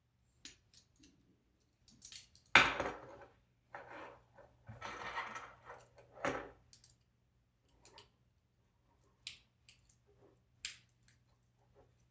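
Small robot-kit parts being handled and fitted together: scattered clicks and light rattles, with a sharp clatter about two and a half seconds in and longer rattling around four to five and a half seconds.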